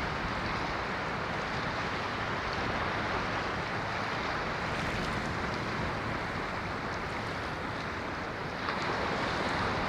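Ocean waves washing on the shore in a steady rush, with a slight swell about nine seconds in.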